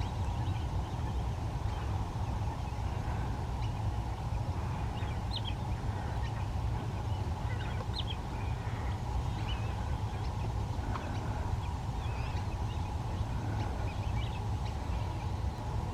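Outdoor ambience with a steady low rumble and a steady mid hum. Many short, high bird chirps and calls are scattered over it.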